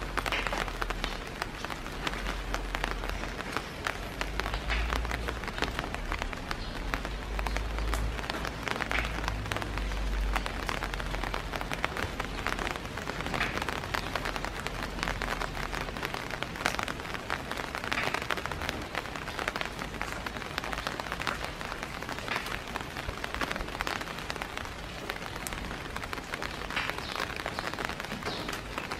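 Steady rain falling, a dense patter of drops, with a low rumble under it that dies away about halfway through.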